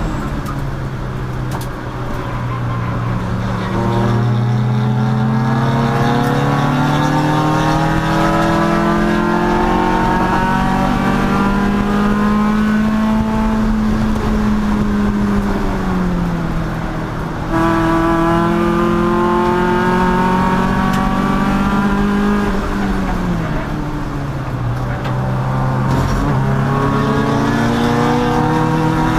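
Race car engine under power through a lap: the pitch climbs slowly as it accelerates, falls away when it lifts off, and picks up sharply about halfway through before falling and climbing again near the end.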